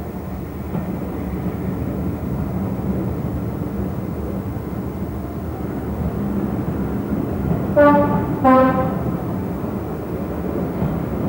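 Steady rumble of a train at a station, with a train horn sounding two short notes, high then low, about eight seconds in.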